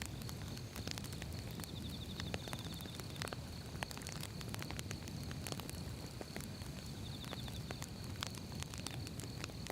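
Firewood burning, with a low steady rumble of flames and frequent irregular crackles and pops. A faint high rapid ticking comes in twice, about two seconds in and again near seven seconds.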